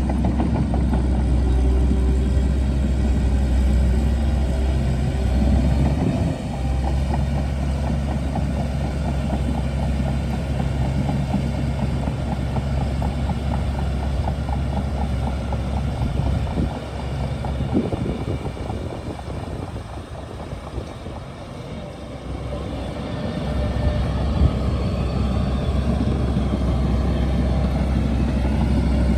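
Bulldozer's diesel engine running steadily with a fast rattling clatter through the first half; a little past halfway the engine note drops away for a few seconds, then comes back up.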